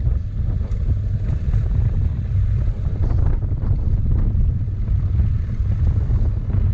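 Wind buffeting the microphone of a moving motorcycle, a steady low rumble that buries any engine sound.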